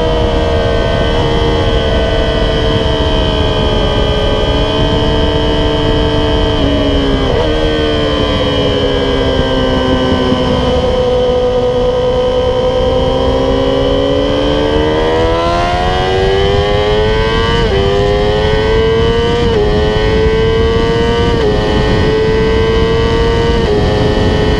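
Yamaha YZF-R6 inline-four on an aftermarket MGP Growler exhaust, heard onboard at speed: the engine note falls as the bike slows into a corner and stays low through it. It then accelerates hard out, rising in pitch through several quick upshifts, each marked by a sudden drop in the note, with steady wind rush underneath.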